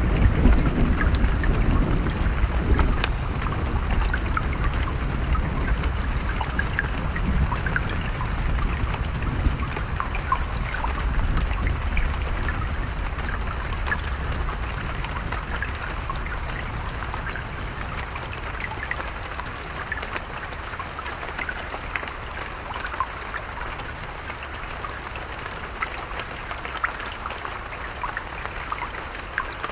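Steady rain falling, with many small drop impacts. A low rumble of thunder is there at the start and dies away over the first twenty seconds or so.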